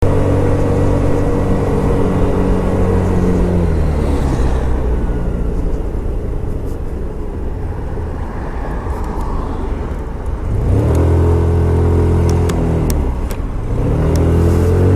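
Scomadi TT125 scooter's 125cc engine running on the move: steady at first, falling away about four seconds in as the throttle eases, with wind and road noise to the fore, then pulling hard again from about eleven seconds, with a brief dip and rise near the end.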